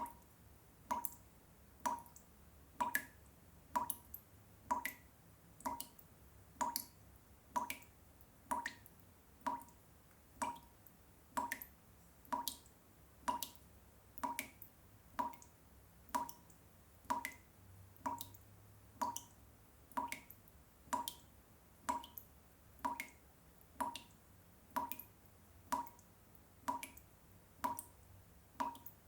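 Water dripping steadily, one drop about every second, each landing with a short bright plink.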